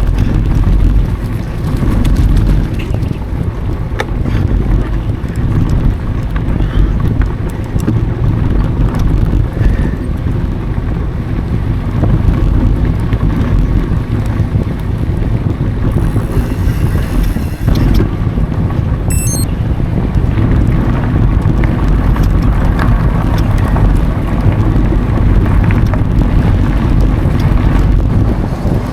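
Wind buffeting an action camera's microphone while a mountain bike rolls along dry dirt singletrack, a steady low rumble with small rattles and clicks from the bike. A short hiss comes about two-thirds of the way through, followed by a few quick high chirps.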